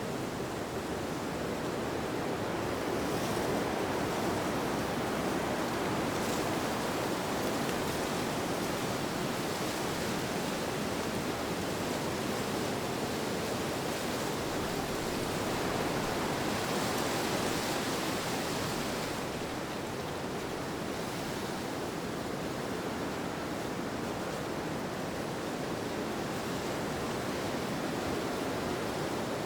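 Steady rushing wind that swells and eases slowly, growing a little brighter for a few seconds past the middle.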